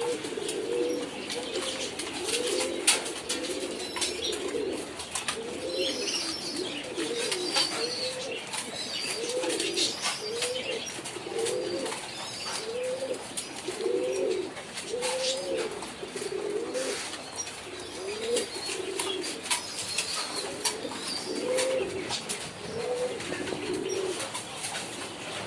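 Domestic pigeons in a large loft cooing continuously, many birds overlapping in a repeated rising-and-falling coo, with scattered sharp clicks among them.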